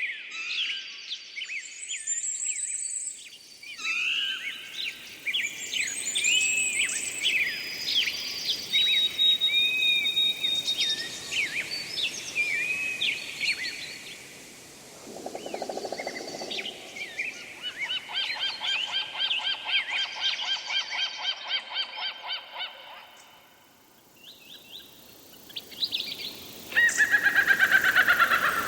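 Wild birds singing and calling: a run of different chirps, whistles and trills, changing abruptly several times as separate recordings follow one another. Near the end a loud, rapidly repeated call falls in pitch.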